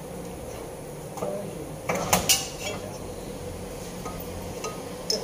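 Metal tools clinking and knocking against metal, a quick cluster of sharp clinks about two seconds in and a few lighter ticks later, over a steady workshop hum.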